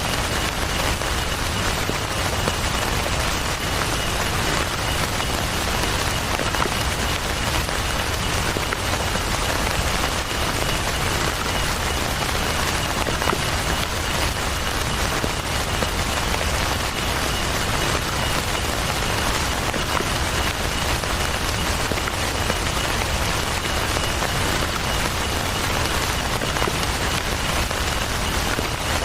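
Heavy rain falling steadily, an even wash of patter with scattered small drop ticks.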